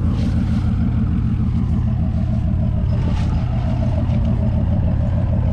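Truck engine running steadily at low speed, a deep even rumble.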